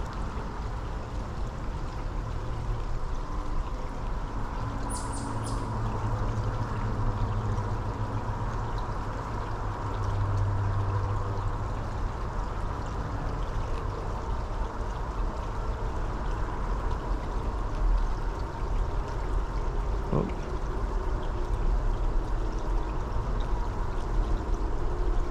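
Small creek running over a shallow bed, a steady rushing and trickling of water, with a faint click about 20 seconds in.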